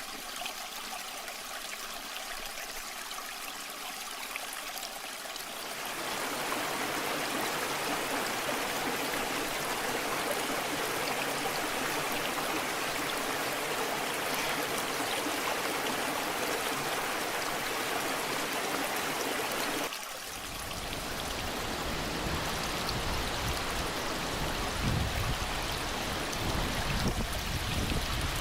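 Waterfall water rushing steadily. It grows louder and fuller about six seconds in, then briefly drops about twenty seconds in and comes back as a deeper rush with a low rumble and uneven surges.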